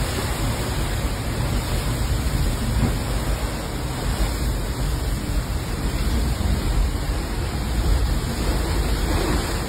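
Steady rushing noise of hurricane wind and storm-surge floodwater.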